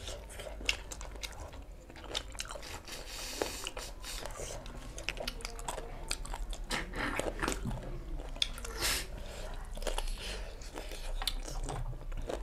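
Close-miked eating sounds: chewing and biting food, with crunching and many irregular wet mouth clicks.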